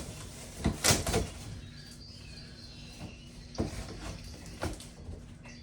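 Packaging handled as a statue box is opened: a few short scrapes and rustles of cardboard and packing material, the loudest about a second in, then two smaller ones.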